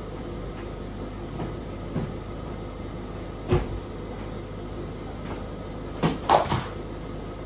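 A few short knocks and clatters of things being handled, like a cupboard or appliance door, over a steady low hum. The loudest is a quick run of three knocks near the end.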